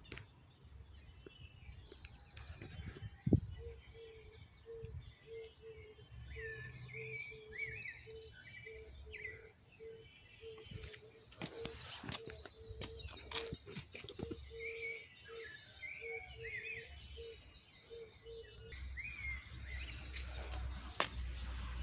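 Small songbirds chirping, with short rising calls scattered through the clip. Under them a low note pulses about twice a second for most of the clip. Brief knocks and a low rumble near the end.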